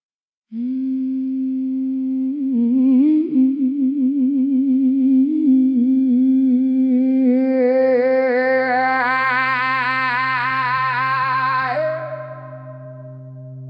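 Song intro: a wordless voice humming long held notes with a wide, wavering vibrato. A low steady drone joins about eight seconds in. The voice drops away about twelve seconds in, leaving a quieter held tone.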